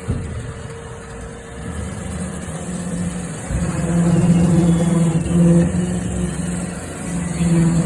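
Roomba robot vacuum running inside sheet-metal ductwork: a steady motor hum that swells louder about four seconds in and then eases off.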